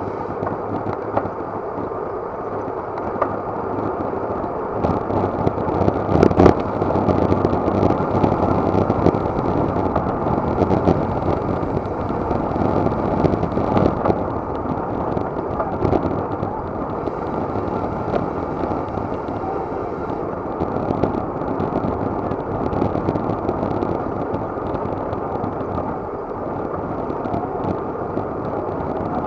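Steady rushing wind and road noise from a bicycle moving at race speed, picked up muffled by an action camera in its housing, with a few sharp knocks about six seconds in.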